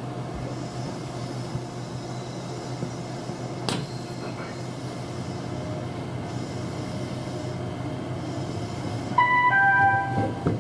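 Electric commuter train pulling away from a station, heard from inside: a steady running hum, with a single sharp clank a few seconds in. Near the end, a short three-note electronic chime sounds, the onboard chime that comes before an automated announcement.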